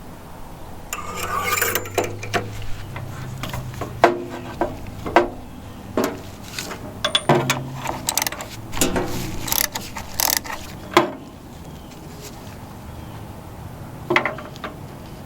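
Hand-tool maintenance work on a garden tractor: irregular clinks, knocks and short scraping sounds of tools and metal parts being handled.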